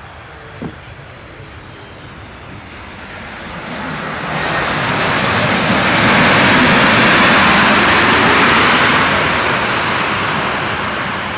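Airliner's engines passing by: a rushing engine noise that grows louder over a few seconds, is loudest about six to nine seconds in, then fades.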